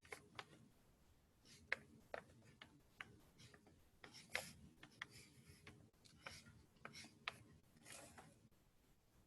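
Faint Chinese brush strokes on paper: short soft swishes mixed with scattered light clicks and taps, a dozen or so spread irregularly.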